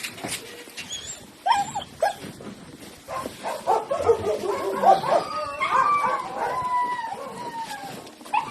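Several puppies whining and yipping: two short yips in the first two seconds, then many high whines overlapping from about three seconds in.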